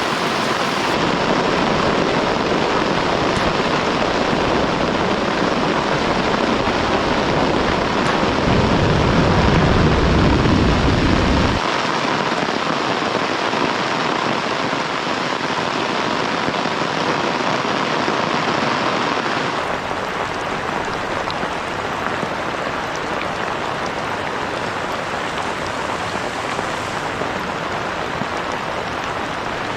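Heavy rain falling steadily, with a deeper rumble swelling for about three seconds near the middle.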